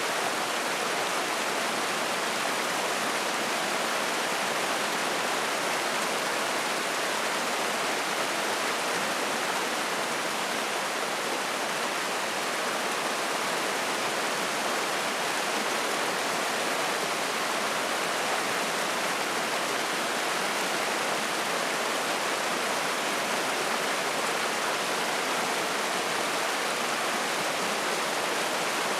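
Spring-fed mountain stream flowing and splashing, a steady, even rush of water that does not change.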